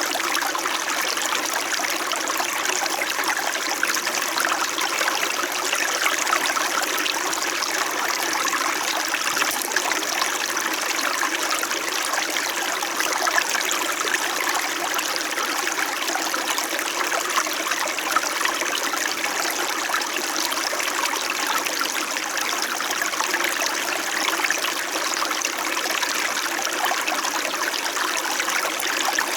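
Small mountain stream flowing steadily over rocks, a continuous babbling and trickling of water.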